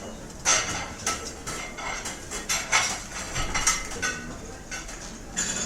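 Cutlery and dishes clattering irregularly in a restaurant, with clinks of metal on china, over a low background hum of the dining room.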